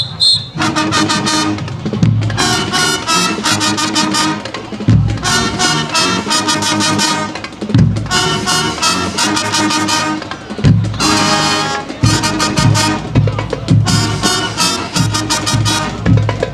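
High school marching band playing its field show: a brass section and drumline play loud phrases, the drums hitting strong beats. The band comes in about half a second in.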